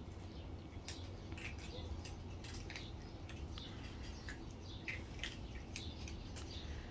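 Small birds chirping in scattered short, irregular notes over a low, steady background rumble.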